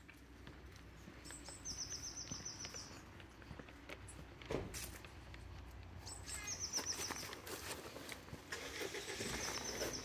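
A small songbird singing a short, rapid high trill, three times, each phrase opening on a brief higher note. Soft rustling and crunching of steps on dry leaf litter underneath.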